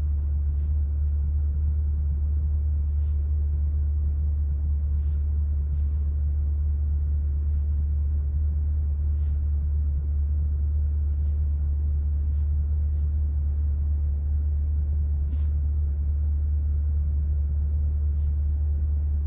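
Steady low rumble of the C8 Corvette's 6.2-litre V8 idling, heard from inside the cabin, with a few faint clicks scattered through it.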